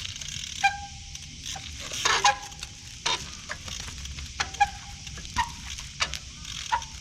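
Trials bicycle being hopped and braked in the rain: sharp knocks every second or so, several followed by a brief honking squeal from the brakes, over a steady hiss of rain.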